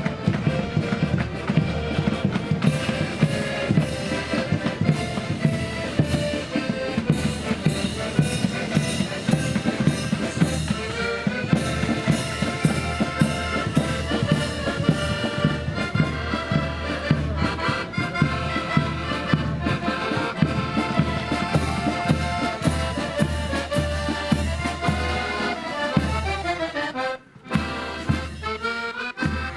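Marching band playing a march: a held melody line over a steady bass drum and side drum beat. The music drops out for a moment near the end, then picks up again.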